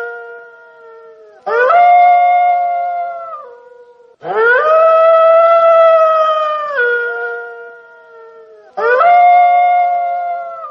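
Wolf howling: a string of long howls, each rising quickly to a held note and then dropping in pitch in a step or two before fading. One howl is dying away at the start, and new howls begin about one and a half, four and eight and a half seconds in.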